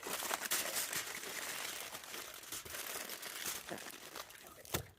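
Heavy-duty aluminum foil crinkling and crackling as it is folded by hand into a cooking packet, with a sharp tap just before the end.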